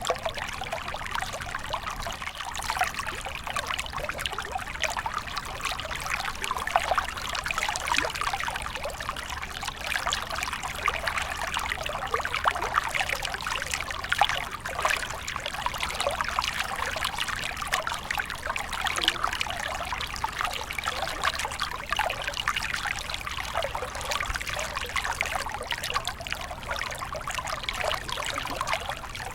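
A small stream trickling and burbling over stones, steady and unbroken, with many small splashes.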